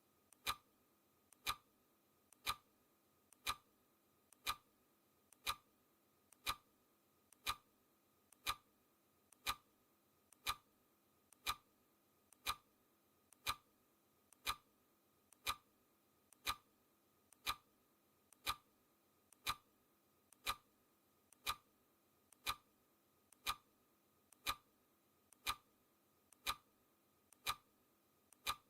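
Clock ticking sound effect of a countdown timer, one sharp tick every second, each with a faint softer click just before it.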